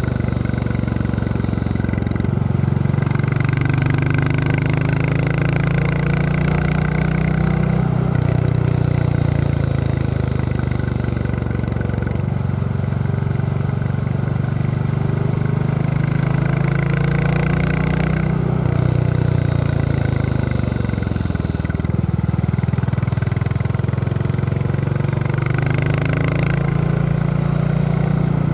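Royal Enfield Classic 350's single-cylinder engine thumping under way. The revs rise and fall several times as the bike accelerates and eases off along a winding road, with wind rushing over the microphone.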